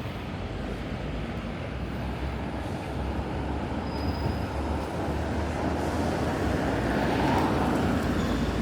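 Street traffic noise: a steady rumble of passing vehicles, with a heavy vehicle coming close and growing louder near the end.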